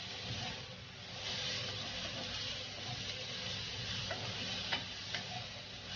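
Chopped aromatics and chilies sizzling in hot oil while they fry down until wilted, a steady hiss, with a few sharp clicks of a spatula against the pan in the second half.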